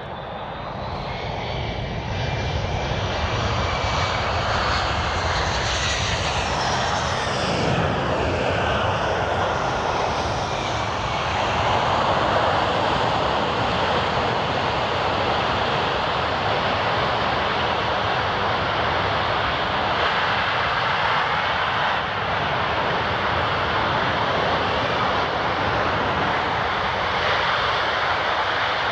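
The four turbofan engines of a Boeing C-17 Globemaster III on a short landing. The jet noise grows louder over the first few seconds, with high whining tones sliding down in pitch, then settles into a steady loud rush for the rest of the time.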